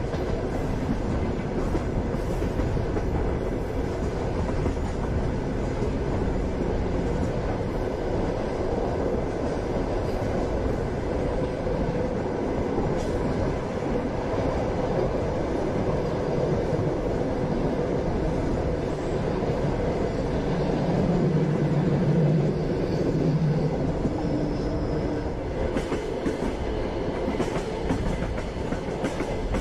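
Passenger train running at speed: a steady rumble with the knocking of wheels over the rails. A low hum swells for a few seconds about two-thirds of the way through.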